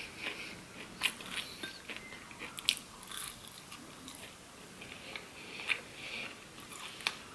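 Close-miked biting and chewing of crunchy fried food, with scattered sharp crunches between softer chewing.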